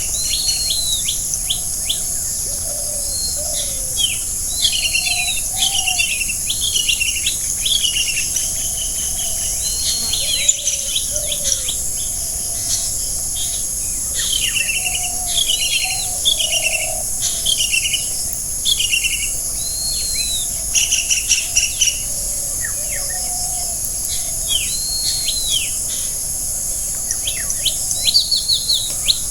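Forest birds singing and calling: repeated arching, whistled phrases with some quick chirps, and softer low calls now and then, over a steady high insect buzz.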